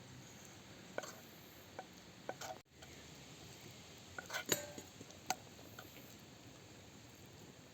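Scattered light clinks and taps of cooking utensils against pots and dishes, a second or so apart, with a quick cluster of several about four and a half seconds in.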